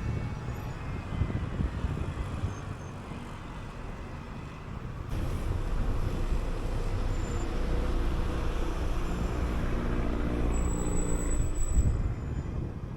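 City bus in motion: steady engine and road rumble, with the engine note growing louder and clearer from about five seconds in.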